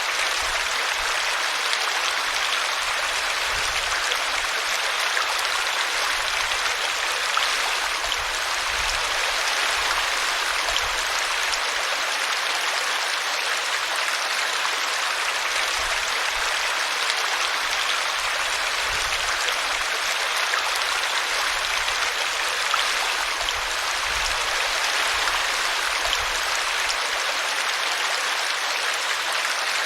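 Small woodland brook pouring over a tree root: a steady rush of running water.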